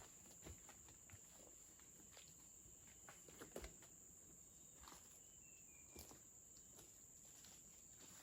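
Faint forest ambience: a steady high insect drone, with scattered small clicks and knocks and a brief chirp about five and a half seconds in.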